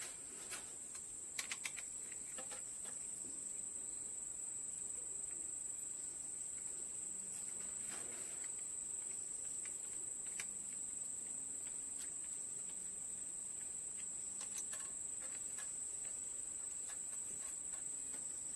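Steady high-pitched insect drone with scattered light clicks and taps, a cluster of them in the first few seconds and again about two thirds of the way through.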